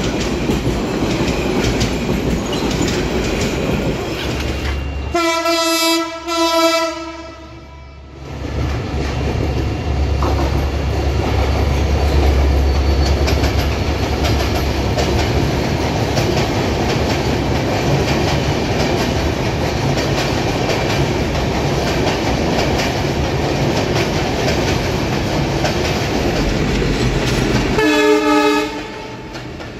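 Diesel-hauled passenger trains running past with a steady rumble and wheel clatter. A locomotive air horn sounds in two short blasts about five seconds in, and once more briefly near the end.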